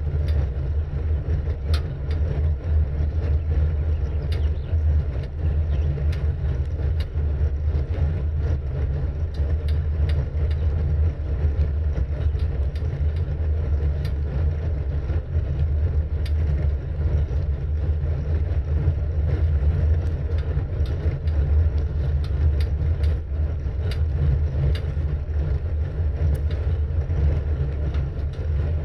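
Steady low rumble of a bike moving at a constant pace, with wind on the rider's camera microphone and faint scattered clicks.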